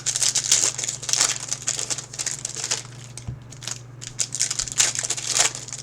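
Crinkling and crumpling of trading-card pack wrappers being handled and torn open, in bursts with a lull in the middle. A steady low electrical hum runs underneath.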